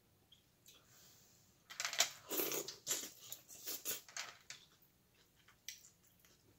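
Corn on the cob being bitten and chewed close to the microphone. A burst of crunching and mouth clicks starts about two seconds in and lasts about two and a half seconds, followed by a few scattered clicks.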